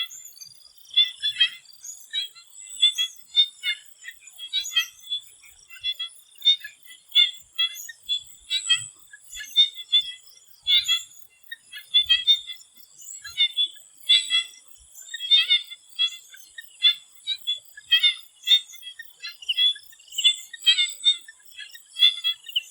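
Swamp frogs calling in chorus: short, repeated calls overlap one another irregularly, one to two a second. A thin, steady high-pitched tone runs underneath.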